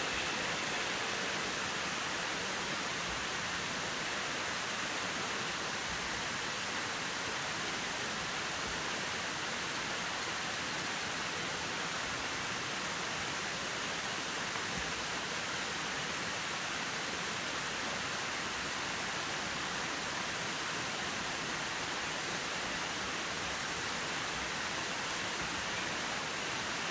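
Steady rushing of flowing water, an even hiss that holds at the same level throughout with no distinct calls or knocks.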